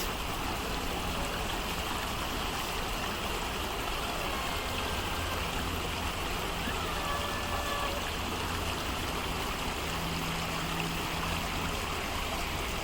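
Creek water flowing steadily, an even rushing and trickling noise.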